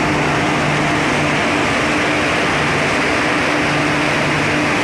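Passenger train pulling into the station platform: a steady, loud running noise with a low, steady hum underneath.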